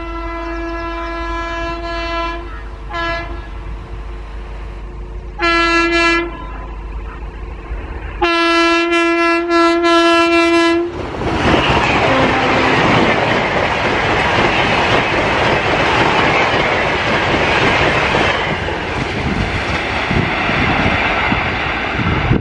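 An Indian Railways electric locomotive sounds its horn in four blasts, the last about three seconds long. A train then passes close by at about 160 km/h, a loud rush of wheels on rail and air that eases off after about 18 seconds.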